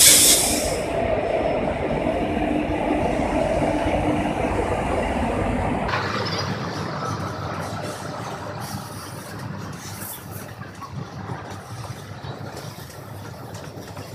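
Indian Railways passenger train at the platform: a short, loud hiss of air at the start, then a steady train rumble. The rumble drops off suddenly about six seconds in and fades away.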